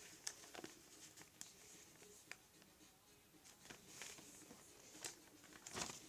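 Faint rustling and soft taps of a sheet of paper being folded and creased, in short scattered strokes, the loudest near the end.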